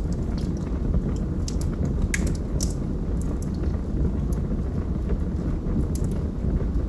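Wood fire burning in a fireplace: a steady low rumble of flames with scattered crackles and pops, the sharpest about two seconds in.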